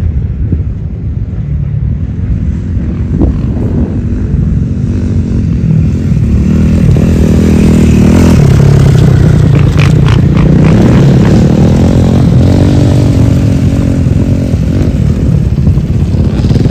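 Dirt bike engine revving unevenly, its pitch rising and falling as the rear wheel spins in muddy water; it grows louder about six seconds in.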